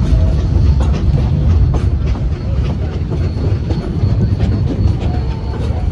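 Narrow-gauge railroad passenger car rolling along the track, heard from on board: a steady low rumble with scattered clacks of the wheels over the rail joints.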